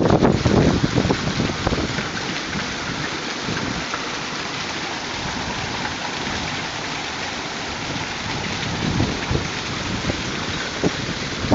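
Hailstorm: hailstones and rain pelting down in a dense, steady hiss, heaviest in the first second or so with low thumps, and a few more thumps near the end.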